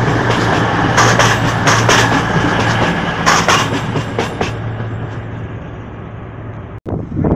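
Diesel passenger train running past at close range: a steady low engine hum with wheels clicking over rail joints, fading away about four seconds in as the last coach goes by. Gusts of wind on the microphone near the end.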